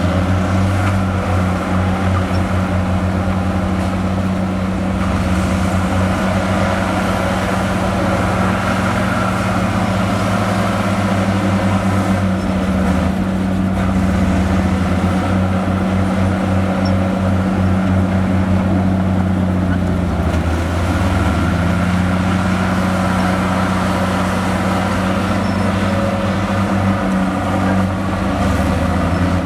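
Heavy diesel engine of earthmoving machinery running steadily under load, its note dipping briefly about twenty seconds in.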